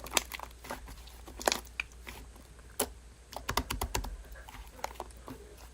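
Irregular light clicks and taps, a few scattered, then a quicker run of them about three and a half seconds in.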